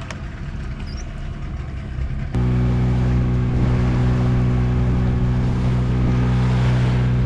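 Small fishing boat's engine running steadily while trolling, a low even drone that becomes abruptly louder about two seconds in.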